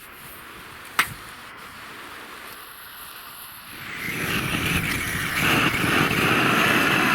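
A campfire of dry, resinous pine catching: from about four seconds in a crackling hiss rises and grows loud as the fire flares up. A single sharp click comes about a second in.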